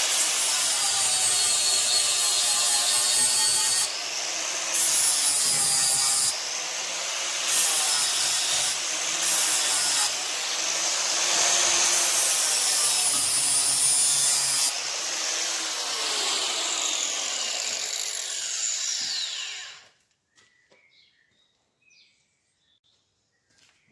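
A handheld power tool grinding the ends of steel pins. Its whine rises and falls with the load, it dips briefly a few times, and it stops about twenty seconds in, leaving a few faint knocks.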